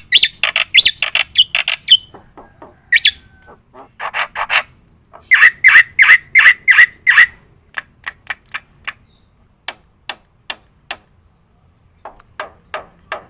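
Black-winged myna (jalak putih) singing in harsh squawks and chattering bursts. About five seconds in comes a run of about six loud repeated notes, then sparse short clicks and ticks.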